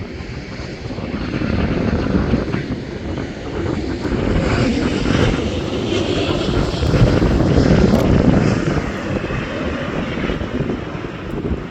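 Airliner passing low overhead, its engine noise swelling to a peak about seven to eight seconds in and then fading.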